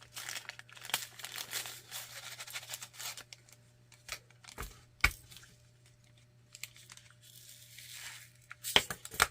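Small plastic bags crinkling and rustling as they are handled for the first three seconds or so, then a few scattered sharp clicks and taps, the loudest about five seconds in and two more near the end, over a faint steady hum.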